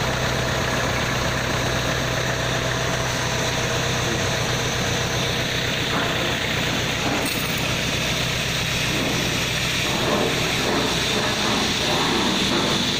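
Tractor engine running steadily, with a steady hiss over it, as the tractor works a boom sprayer.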